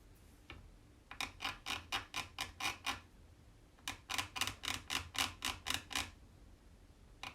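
Quick, rhythmic scratching strokes on a paper tag, scraping off a little chalk paste that bled through a stencil. The strokes come about five a second in two runs of roughly two seconds each, with a single stroke near the end.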